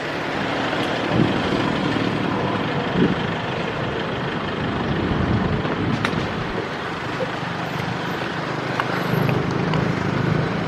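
Steady road traffic noise from passing motor vehicles, a constant wash of engine and tyre sound, with a vehicle's engine hum growing stronger near the end.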